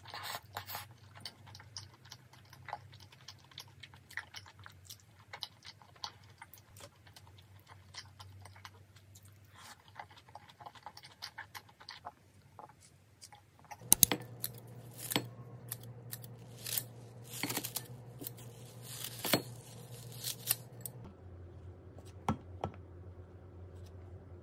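Close-miked eating sounds: chewing and small mouth and chopstick clicks. About fourteen seconds in, these give way to sharper clicks and knocks of kitchen utensils and bowls over a steady low hum.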